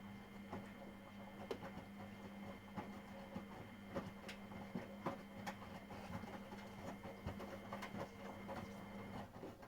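Miele Professional WS5436 washing machine turning its drum during the wash: a steady motor hum with many irregular clicks and knocks throughout. The hum stops shortly before the end.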